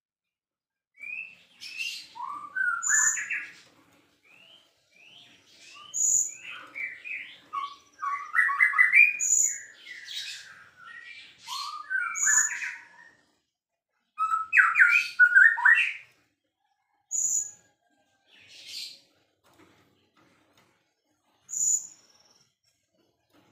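White-rumped shama singing: bursts of quick, varied whistled phrases broken by short pauses, with a short high note repeated every few seconds.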